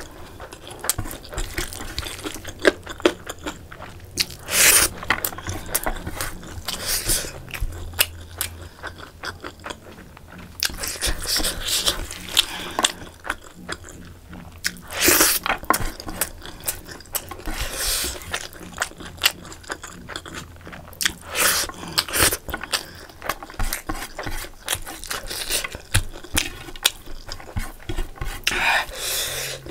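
Close-up eating sounds: a person chewing and smacking on mouthfuls of rice and curry eaten by hand, with many short wet clicks. There is also the rustle of fingers gathering rice on a plate.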